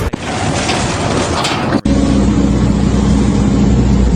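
A rough, noisy stretch cuts off abruptly just under two seconds in. An engine then runs steadily with an even, low hum.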